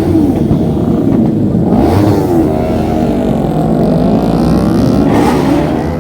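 Motorcycle engines revving, pitch climbing and falling over and over, with sharper rev surges about two seconds in and again near the end.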